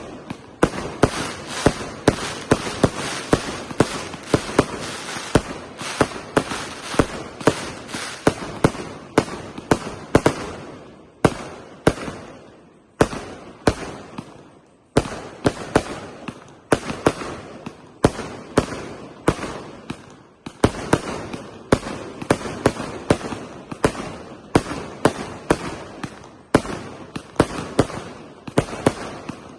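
A 300-shot, 1.2-inch fireworks cake firing in rapid succession: sharp bangs about two a second, with crackling between them. The shots thin out briefly around the middle, then pick up again.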